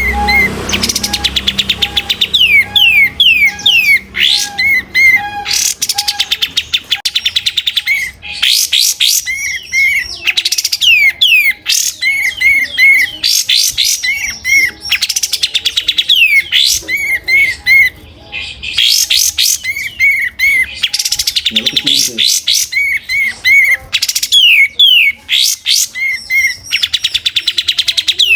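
Kapas tembak bulbul singing nonstop in loud, rapid phrases: strings of sharp falling whistled notes, quick chirps and fast trills, with only brief gaps between phrases.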